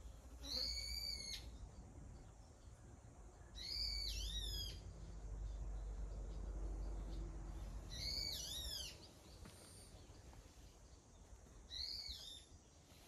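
A wild bird calling four times, each call a short run of arching whistled notes lasting about a second, repeated every three to four seconds, over a faint low rumble.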